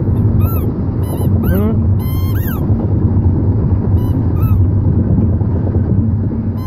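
A golden retriever chewing a squeaky rubber ball, which lets out several short squeaks that rise and fall in pitch at irregular moments, over the steady low rumble of a car on the road.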